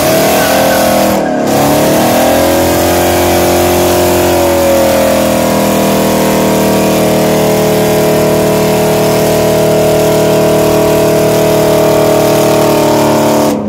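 Ford Mustang's engine held at high revs during a burnout, its rear tyres spinning on the asphalt. The revs dip briefly about a second in, then hold steady for a long time before dropping off suddenly near the end.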